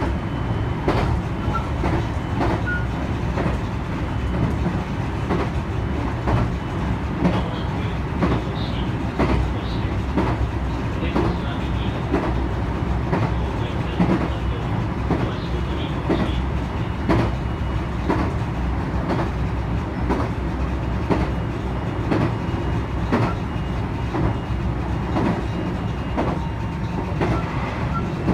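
Electric passenger train running at speed, heard from inside the leading car: a steady low rumble of wheels on rail, with sharp clacks over the rail joints roughly once a second.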